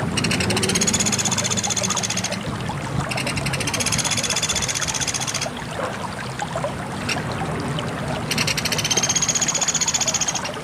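Pelatuk beras bird singing: three long, rapid, high-pitched trills of about two seconds each, over a steady rushing background like running water.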